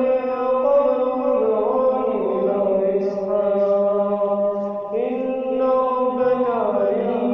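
A man reciting the Quran in melodic tajweed style, drawing out long held notes that slide between pitches.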